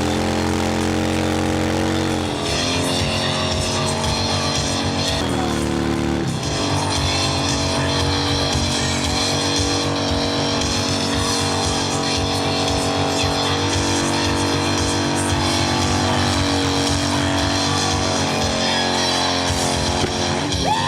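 Motorcycle engine running hard, its pitch rising and falling with the revs in the first six seconds and then holding fairly steady, with rock music underneath.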